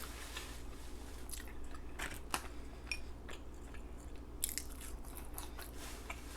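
Close-up open-mouth chewing of a bite of hamburger: wet smacks and clicks scattered irregularly, a few louder ones partway through.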